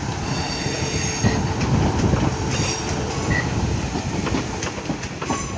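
A pair of Class 450 Desiro electric multiple units rolling past at low speed through the station throat: a steady rumble of wheels on rail, with high wheel squeal coming and going and the click of wheels over rail joints.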